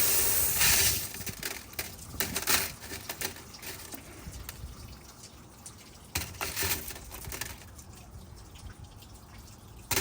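Tap water running and splashing over tumbled opal rough and grit slurry, loudest in the first second, then trickling on with scattered small clicks and knocks of stones being handled.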